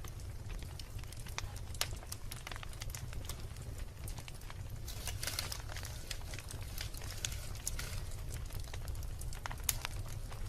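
Wood fire burning in a fireplace: logs crackling with scattered sharp pops over a steady low rumble of the flames, with a denser burst of crackling about halfway through and one sharp pop near the end.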